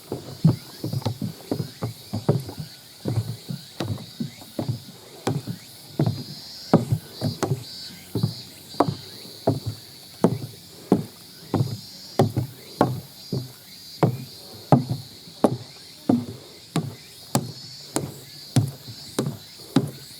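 The loose monitor of an old handheld video camera clattering with each step of a walking hiker, a steady run of knocks about two a second.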